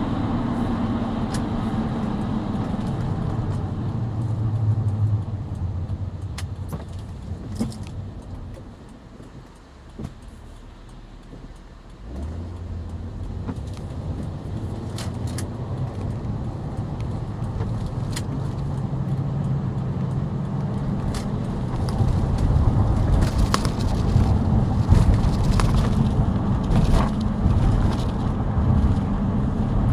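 Chrysler 300M driving in town: its tyres, which are deformed, make a steady road roar along with the engine. The noise eases to a quieter spell about a third of the way in, picks up again as the car pulls away, and grows louder near the end. There are a few light clicks and rattles.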